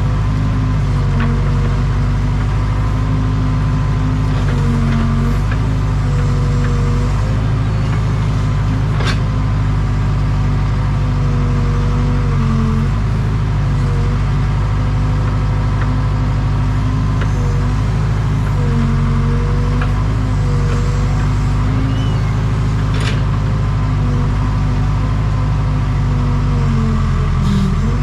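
Case 580 Super K backhoe loader's diesel engine running steadily while it works, its pitch sagging briefly every few seconds as the hydraulics take load. A few sharp clicks or knocks of the machine's linkage come through.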